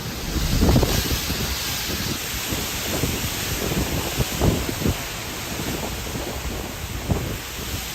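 Heavy rainstorm: a steady hiss of rain with irregular gusts of wind buffeting the microphone, the strongest just under a second in.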